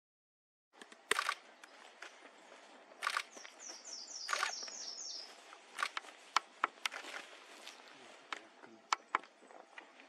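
A bird gives a quick run of about eight thin, high, falling notes a little over three seconds in. Around it are scattered sharp clicks and three short, louder clattering bursts.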